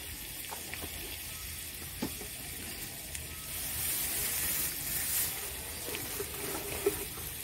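Chopped onion and spices frying in oil in a kadai, sizzling steadily and a little louder in the middle. A few faint clicks are heard over the sizzle.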